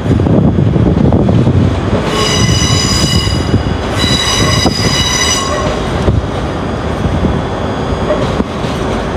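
A train running slowly through the station with a steady rumble, its wheels squealing on the curved track twice, a couple of seconds apart, near the middle.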